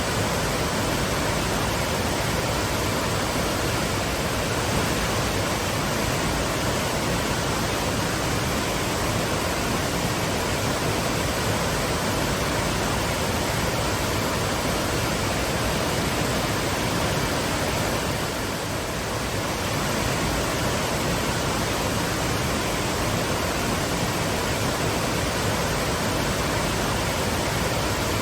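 Twin waterfalls rushing, a dense, steady roar of falling water with no let-up.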